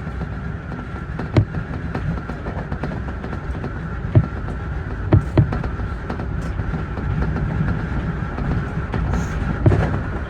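Electric commuter train running on the Keio Inokashira Line: a steady rumble of wheels on track under a steady whine, with several sharp clacks as the wheels cross rail joints.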